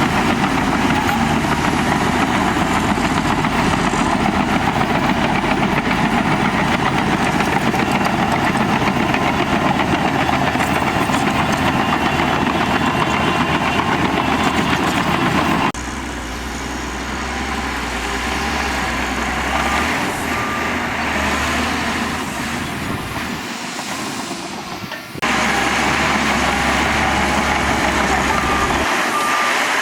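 Diesel engine of heavy earthmoving machinery running steadily. The sound cuts abruptly about halfway through to a quieter engine for roughly ten seconds, then cuts back to the louder running.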